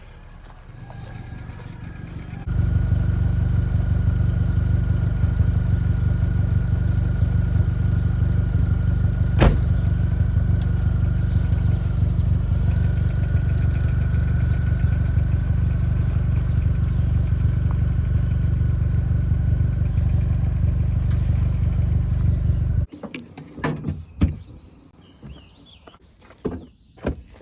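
Steady, loud low rumble of a car running, with one sharp click partway through. It cuts off suddenly near the end and gives way to a few scattered knocks and clicks.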